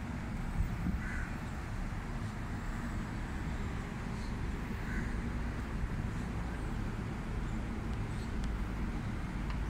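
Steady low outdoor rumble with a bird calling briefly twice, about a second in and again about five seconds in.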